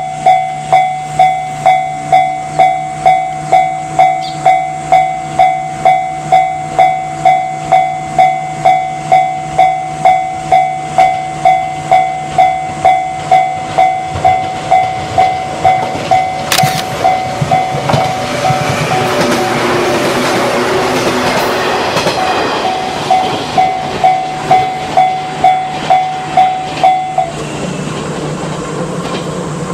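Shinano Railway Series 169 electric multiple unit approaching and running past, its noise swelling from about 17 s and peaking between 19 and 23 s, with a level-crossing warning bell ringing about twice a second throughout. The bell is drowned out while the train passes and stops about 27 s in.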